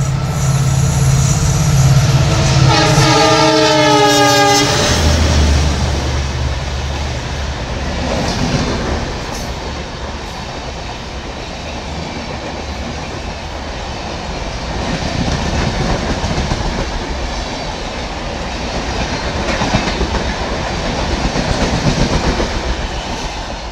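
EMD WDP4B diesel locomotive passing at speed. Its multi-tone air horn sounds and cuts off about four and a half seconds in, then there is a heavy low rumble as the locomotive goes by. After that, Shatabdi coaches rush past with a steady clickety-clack of wheels on rail joints.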